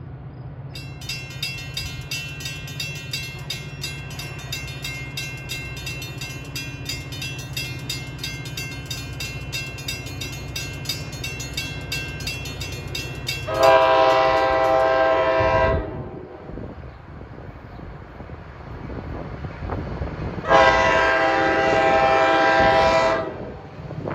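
Multi-chime air horn sounding two long blasts, each about two seconds, some five seconds apart. Before them a fast, even high ringing runs for about twelve seconds over a low steady engine rumble.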